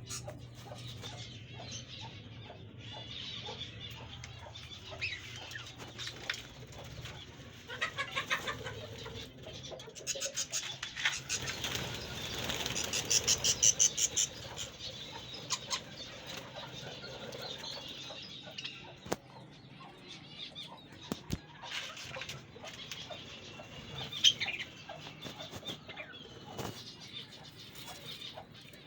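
Budgerigars chirping and chattering, with a few short runs of rapid wing flapping; the loudest run of flapping comes a little before the middle.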